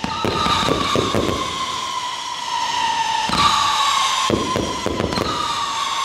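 Aerial fireworks going off: several whistles overlap, each slowly falling in pitch, among repeated sharp bangs and crackling bursts.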